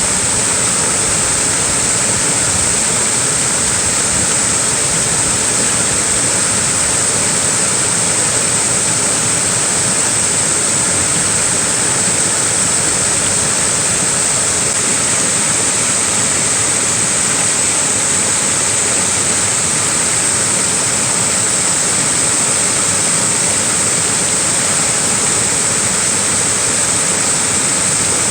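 Small waterfall: a steady, unbroken rush of falling and splashing water with a bright hiss on top.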